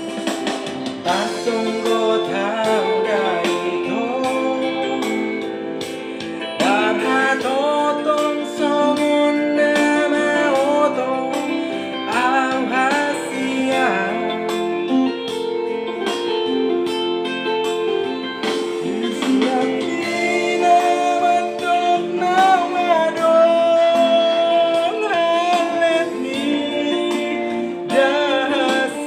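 Amateur singing with an instrumental accompaniment: a single sung melody line over sustained chords.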